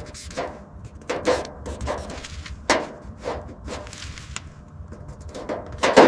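Irregular knocks and taps, about a dozen, with the loudest near the end, over a faint low hum.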